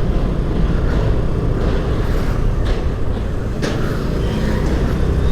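Steady engine and road noise from riding a Honda Activa 5G scooter through traffic.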